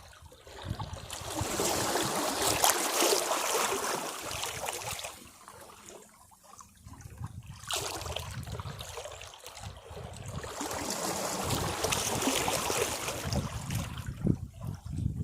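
Sea waves washing against rocks: two surges of rushing, splashing water, each lasting several seconds, with a low rumble in the lulls between them.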